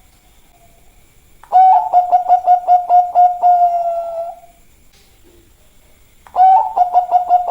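Zebra dove (perkutut) of the Bangkok song type cooing: a phrase of quick stuttering notes running into a long held coo, starting about a second and a half in, then again about six seconds in.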